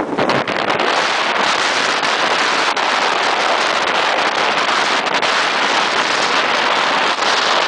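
Steady, loud rushing hiss of wind and water aboard a sailing yacht under way, with wind buffeting the microphone.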